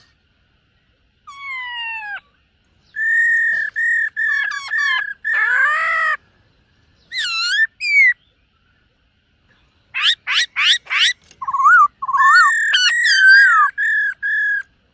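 Black-throated laughingthrush singing loud, clear whistled phrases: falling glides, held notes and quick runs of rising sweeps, in bursts with short pauses between them, beginning about a second in.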